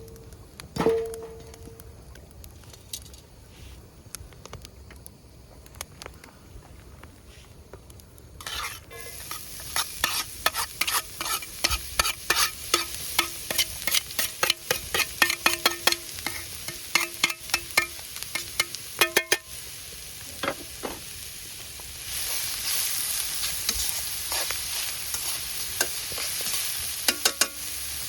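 Metal utensil clinking, then stirring and scraping rapidly in a pan of frying food, with sizzling underneath. From about two-thirds of the way in, the clatter stops and the sizzle gets louder and steadier.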